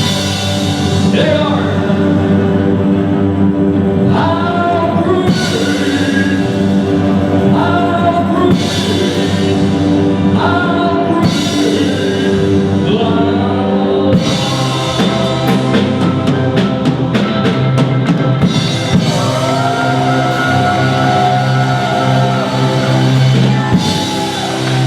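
Live band music with drums, a melody line moving between long held notes over sustained chords.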